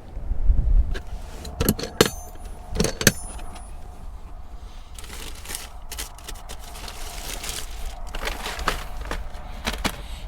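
Wind buffeting the microphone in a low, gusty rumble. About two to three seconds in come several sharp clicks and knocks, two with a brief metallic ring like keys or a latch, and later a stretch of rustling handling noise.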